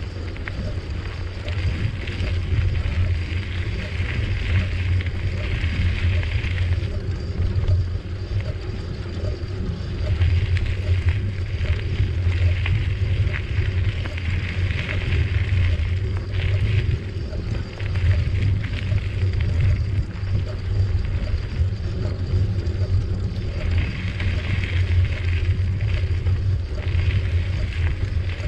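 Wind buffeting the microphone and bicycle tyres rolling on a trail, a steady low rumble with stretches of higher hiss that come and go every few seconds.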